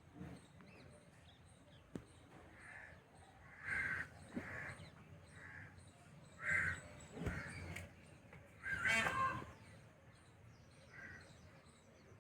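Crows cawing: a string of short, harsh caws at irregular intervals, with a louder cluster of calls about nine seconds in.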